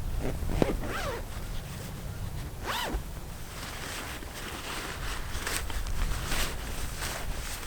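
A zipper being pulled in short runs: two quick sweeping pulls near the start, then lighter scratchy strokes.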